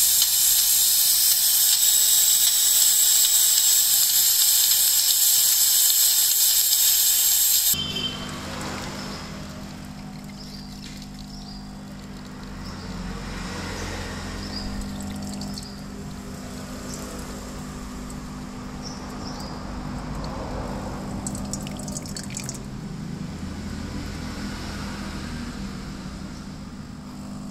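De'Longhi coffee machine's steam wand hissing loudly, shut off abruptly about eight seconds in. After that the machine's pump hums steadily, with liquid running.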